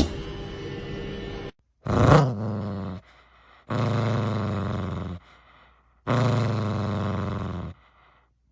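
A dog's low, drawn-out growling grumbles: three of them, the first short and falling in pitch, the next two held for about a second and a half each, with short silences between. They follow a steady low sound that cuts off abruptly.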